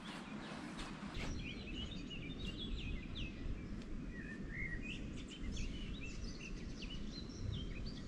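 Small birds chirping and calling many times in short notes over a steady low rushing background.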